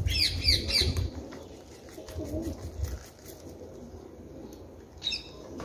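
A small bird chirping: three quick, falling chirps in the first second and another short run near the end. Under them are low bumps and rustling as a plant's root ball is handled into a clay pot.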